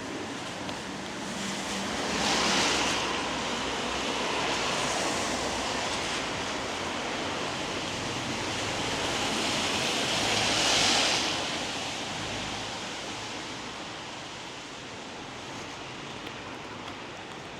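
Tyres hissing on a wet road as two vehicles pass, one swelling and fading about two seconds in and another around eleven seconds, over a steady hiss of light rain.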